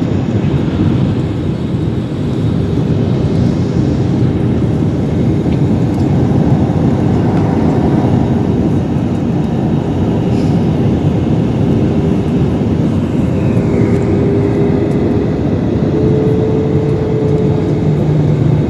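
Airplane in flight: a loud, steady rumble of engines and airflow, with a faint steady hum that steps briefly higher near the end.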